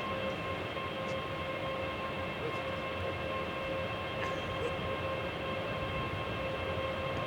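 Train running steadily: a low rumble with a constant high-pitched whine that neither rises nor falls.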